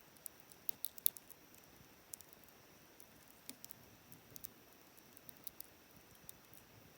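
Wood campfire crackling: sharp pops and snaps from the burning wood, a quick cluster about a second in, then scattered single pops over a faint steady hiss.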